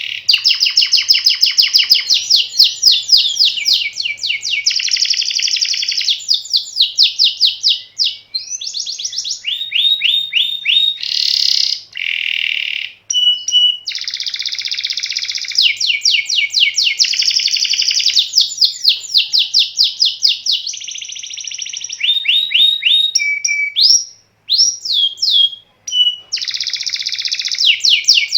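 Domestic canary singing a long continuous song of fast rolling trills, each phrase a rapid run of repeated notes, with a few brief pauses between phrases.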